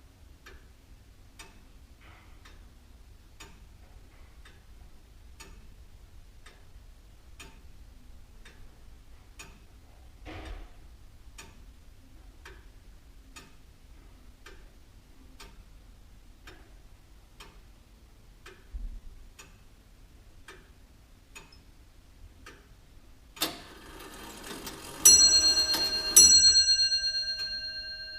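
Antique William Holliwell of Liverpool clock ticking evenly, about two ticks a second. Near the end its striking mechanism whirs into motion and the clock strikes twice, each stroke ringing on for several seconds.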